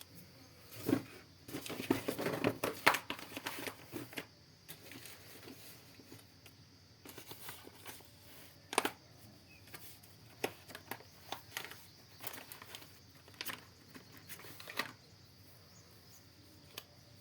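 Close handling noise: a burst of rustling and crinkling in the first few seconds, then scattered sharp clicks and taps that stop shortly before the end.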